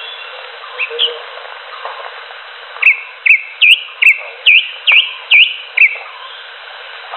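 Greater green leafbird (cucak hijau) calling: a run of about eight loud, swooping whistled notes, two or three a second, with two fainter notes shortly before, over steady background noise.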